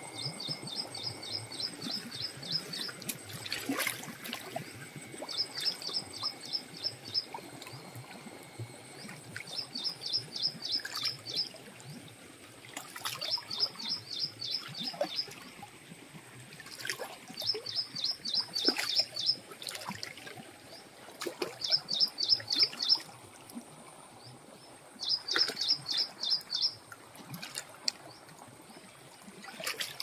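A bird repeating a short, rapid high trill about every four seconds, seven times. Under it runs the steady rush of a shallow stream flowing over stones.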